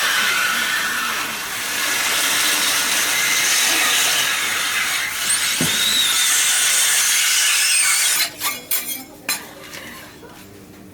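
Loud steady hiss of street-food cooking, steam or a gas flame on a hot grill or press. It cuts off about eight seconds in, followed by several sharp clacks.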